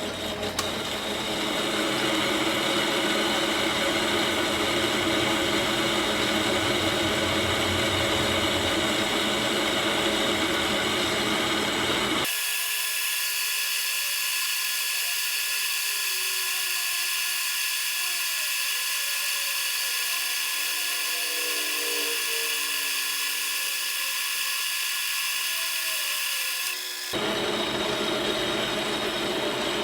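Metal lathe running: a steady machine whine with hiss. The low end drops out for about fifteen seconds in the middle, leaving it thinner.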